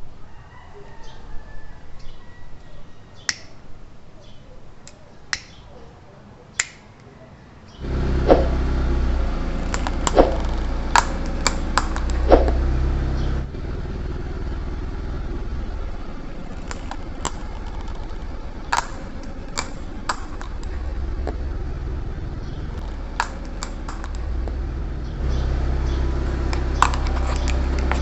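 Car engine running steadily at low speed, with sharp cracks and snaps as plastic Cricket lighters break under the tyres. For the first several seconds only scattered clicks are heard; the engine comes in suddenly about eight seconds in.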